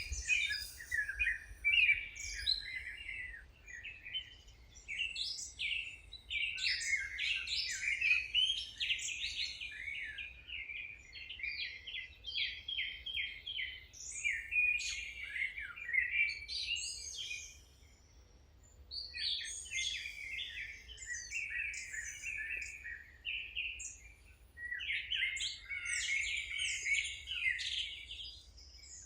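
Songbirds chirping and singing in quick, overlapping phrases, with a short lull about two-thirds of the way through.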